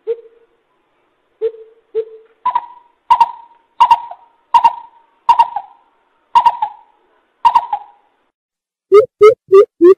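Greater coucal calling. A few deep single hoots come first, then a slower series of higher, harsher notes about one every 0.7 s, and near the end a fast run of deep hoots about three a second.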